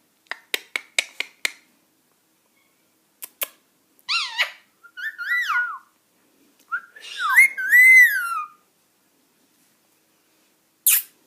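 Indian ringneck parakeet clicking rapidly about five times, then giving a few rising-and-falling whistles, the last one longest, and a short harsh squawk near the end.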